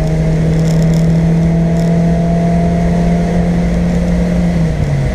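Car engine pulling steadily under power, heard from inside the cabin, its note creeping up slightly and then dropping to a lower pitch near the end. Steady road noise runs underneath.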